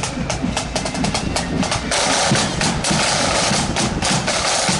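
Marching flute band's drums playing: rapid snare drum strokes over bass drum beats, thickening into a continuous rattling roll about two seconds in that lasts about two seconds.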